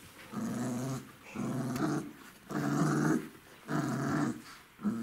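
Newfoundland puppies growling in play-fighting, in about four short bouts of under a second each, with another starting near the end.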